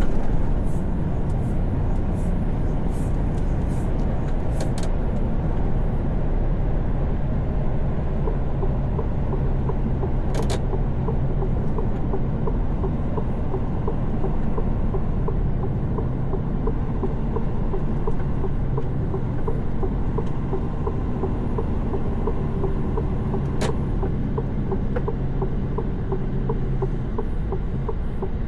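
Truck cab at highway speed: a steady diesel engine drone and tyre rumble. A quick run of sharp clicks in the first few seconds, and single clicks about ten seconds in and a few seconds before the end.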